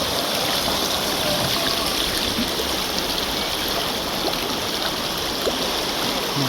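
Glacial mountain river flowing, a steady even rush of water.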